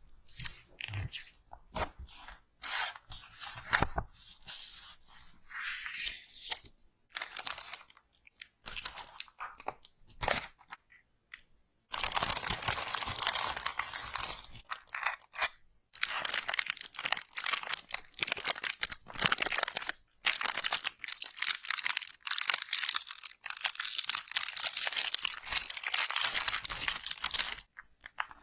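Slime being squeezed and worked close to the microphone, crunching and crackling. At first it comes in scattered pops and short crackly bursts; about halfway through it turns into dense, continuous crackling with a couple of brief pauses, stopping just before the end.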